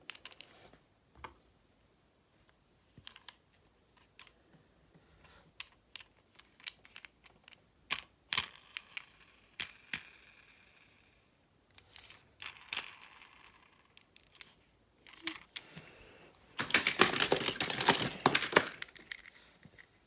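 Handling noise: scattered clicks and taps, a stretch of rustling about midway, and a louder burst of rustling and crinkling near the end.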